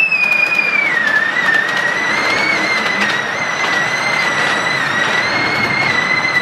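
Moving miniature steam train: a long, high-pitched, slightly wavering squeal that dips in pitch about a second in and then holds steady. It sits over the steady running noise of the ride, with faint clicks.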